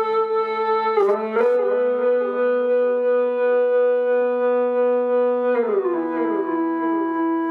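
Eastwood Airline H44 electric guitar played with an EBow through overdrive and a Boss delay into a Fender Excalibur amp: long, unbroken held notes that slide up to a new pitch about a second in and slide down again near the end, the delay repeating the downward slide in stepped echoes.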